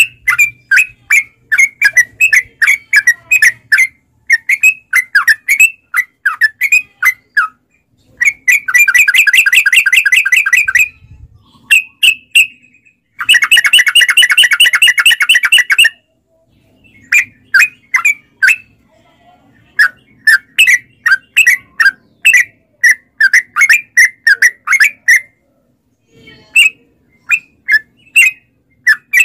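Yellow-vented bulbul (trucukan) singing: runs of short, quick chattering notes, several a second. Two rapid rolling trills of about three seconds each come near the middle.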